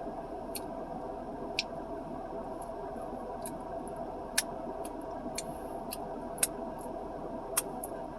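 Someone chewing food, with sharp, irregular mouth clicks roughly once a second over a steady background hum.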